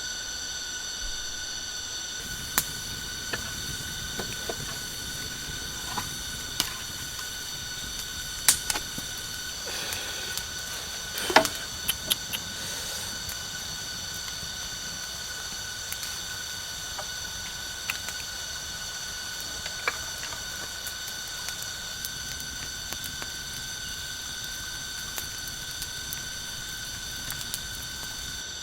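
A steady, high-pitched drone of several held tones, with scattered sharp clicks and knocks, the loudest cluster of them about eleven seconds in.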